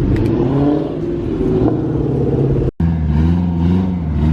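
A car engine revving and accelerating, its pitch rising and falling, with a brief break about two-thirds of the way through.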